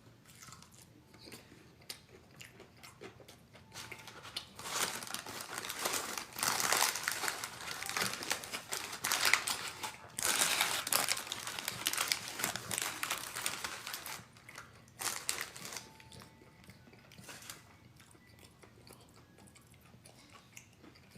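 Close-up crinkling of takeout food packaging and crunchy biting and chewing, loud and crackly for about ten seconds in the middle with a brief pause, then two short bursts and quieter chewing.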